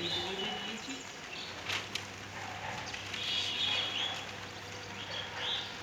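Birds chirping over a steady hiss of rainfall, with a couple of sharp ticks about two seconds in.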